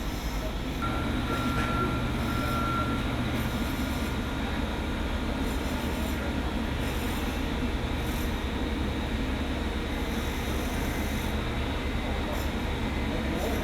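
Steady mechanical rumble and hiss, with a thin high whine and a low hum from about one to three seconds in.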